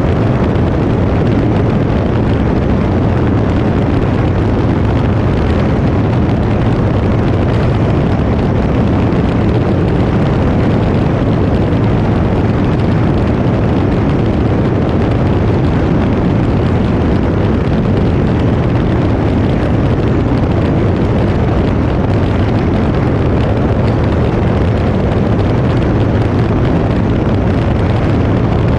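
Cirrus SR20 light aircraft in flight, its piston engine and propeller giving a steady, unchanging drone mixed with rushing air, heard from on board.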